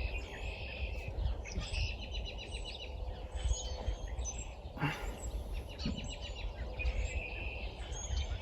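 Small birds chirping and trilling repeatedly over a steady low rumble of background noise, with a single short knock about five seconds in.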